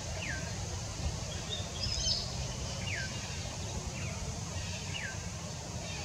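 Bird calls: short whistles sliding down in pitch, four of them, with a brief cluster of higher chirps about two seconds in, over a steady low rumble.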